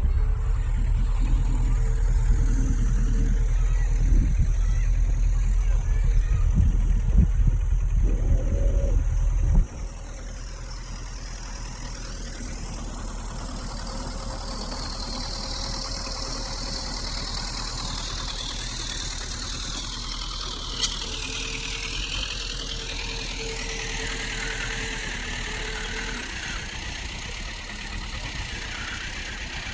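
Heavy diesel earthmoving machinery running steadily with a low engine drone. About a third of the way in the engine sound drops sharply to a quieter steady running, with a high hiss slowly falling in pitch over the rest.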